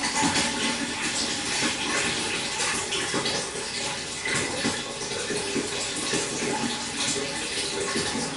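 Water running and splashing steadily into a pond: a continuous stream of many small irregular splashes and trickles.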